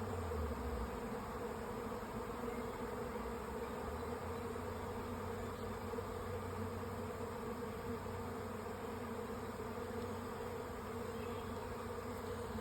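A honey bee swarm buzzing in a steady drone as the bees fly in to settle into a hive.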